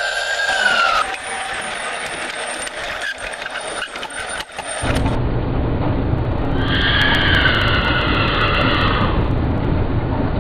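A siren tone ends about a second in, followed by clicking. After a cut, a steady low rumble comes in, and a horse whinny sounds for about two seconds near the middle.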